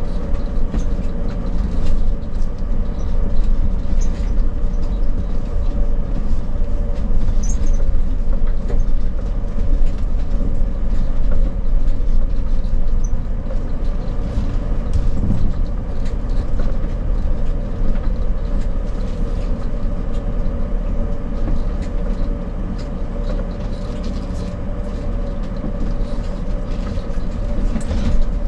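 Road noise inside a moving RV on a bumpy road: a steady low rumble and engine drone, with frequent small rattles and clatters throughout.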